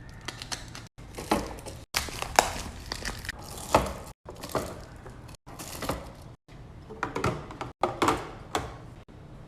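Groceries and packaging being handled and set in place: crinkling wrappers, knocks and clicks of containers. It comes in short pieces that cut off abruptly every second or so.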